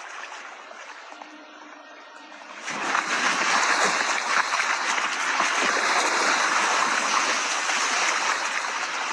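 Water splashing and rushing. It is fairly quiet at first, then about three seconds in it turns into a loud, steady wash of water noise.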